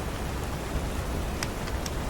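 Steady rain with a deep low rumble. A few sharp crackles from a fireplace come in the second half.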